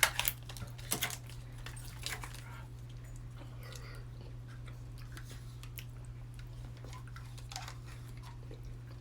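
People eating yogurt fast with spoons: faint scattered clicks of spoon and mouth, a few louder ones in the first second or so, over a steady low hum.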